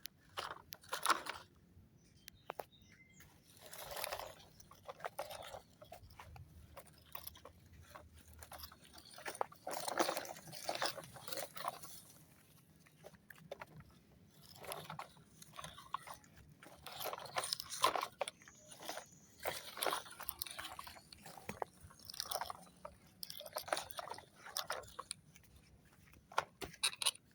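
Irregular crunching and scraping sounds in short, uneven bursts, with no steady engine note.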